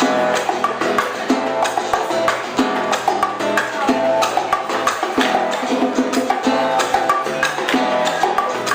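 Live old-school Cuban dance music with steady rhythmic percussion, including sharp clave or wood-block clicks.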